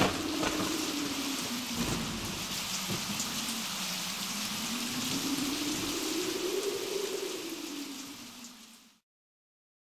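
Steady, heavy rain with a low tone that slowly dips and rises beneath it, fading out near the end.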